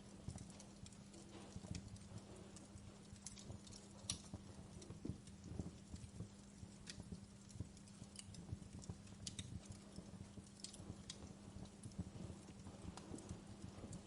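Wood fire crackling: small irregular pops and snaps, with sharper cracks every second or so, over a faint steady low hum.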